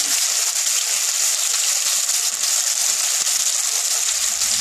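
Sliced potatoes frying in hot mustard oil in a kadai: a steady sizzle with fine crackling.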